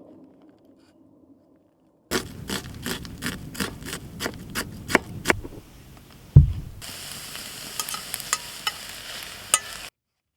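Cooking at a pan: a quick run of sharp clicks like a utensil knocking against it, a single low thump, then a steady sizzle of frying with scattered crackles that cuts off abruptly near the end.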